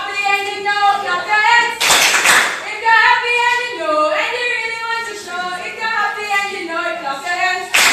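A group of voices singing a song together, with bursts of hand clapping about two seconds in and near the end.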